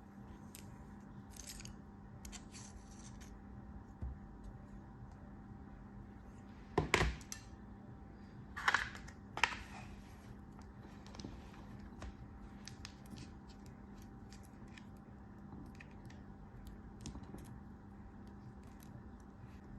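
Close-up crunchy cutting and crumbling of kinetic sand or soap, with scattered small crackles and three louder crunches near the middle. A faint steady hum runs underneath.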